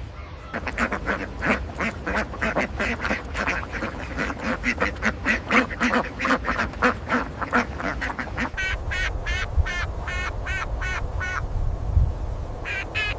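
Ducks quacking in a rapid run of short calls, about three a second. From about eight and a half seconds in a higher-pitched series of quacks takes over, and after a short gap it starts again near the end.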